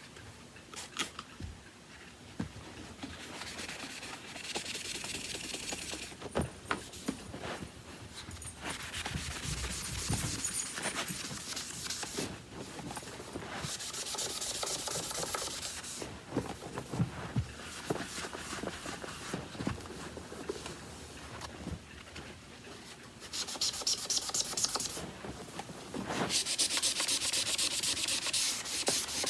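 Rapid back-and-forth scrubbing with a magic eraser on the plastic housing of an upright vacuum, working at paint marks and scuffs, in several bouts of fast strokes with handling knocks between them.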